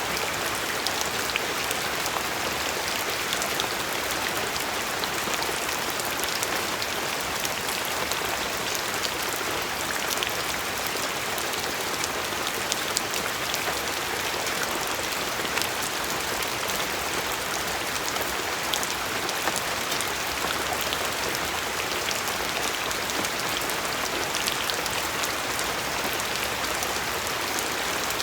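Steady rain falling, a continuous hiss with many fine drop ticks and a few louder individual drops.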